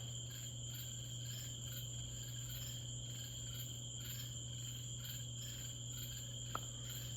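Night insects such as crickets trilling steadily, with a faint high pulsing chirp about twice a second, over a steady low hum. There is one small click about six and a half seconds in.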